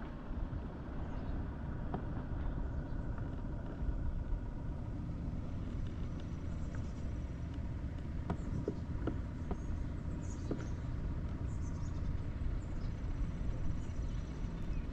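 Steady low rumbling noise with a few faint ticks and knocks: the open-water background on a kayak, much of it likely wind on the microphone.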